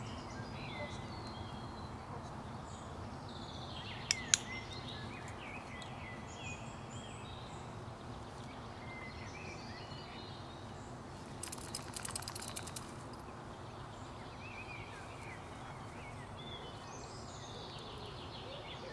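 Songbirds chirping and singing in short phrases over a steady low background hiss. Two sharp clicks come about four seconds in, and a brief crackling rustle comes around two-thirds of the way through.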